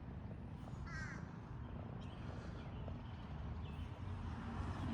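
A faint, short bird call about a second in, and a fainter one later, over steady low background noise.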